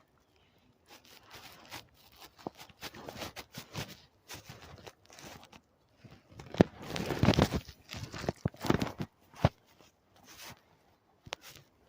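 Irregular close crunching and crinkling rustles, in bursts with a few sharp clicks, loudest about seven seconds in.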